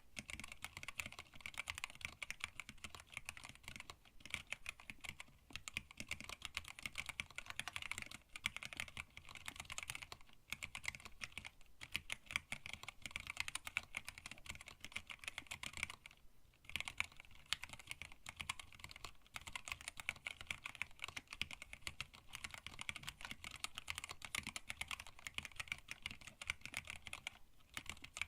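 Steady, rapid typing on a hand-wired split mechanical keyboard with Tealios linear switches, blank PBT keycaps and an acrylic case. Brief pauses come about sixteen seconds in and near the end.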